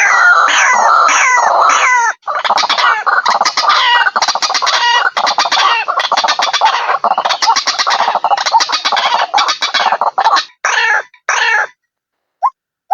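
White-breasted waterhen (ruak-ruak) calling loudly in a rapid, continuous run of repeated calls, as played on a bird-lure recording. There is a brief break about two seconds in. Near the end the calls thin to a few separate ones and stop, leaving a couple of short, sharp notes.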